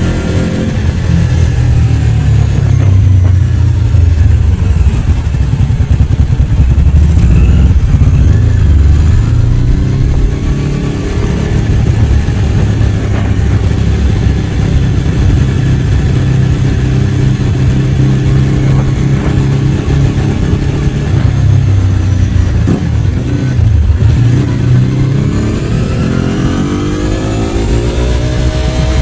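Ducati 749's V-twin engine running under way, its pitch rising and falling with the throttle. It drops back briefly a little after the middle, then climbs steadily as the bike accelerates near the end.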